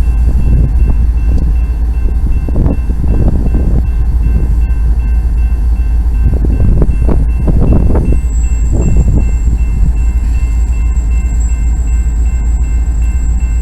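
Diesel locomotives of a stopped freight train running, a loud deep rumble with uneven surges and steady thin high tones above it, one more high tone joining a little past halfway.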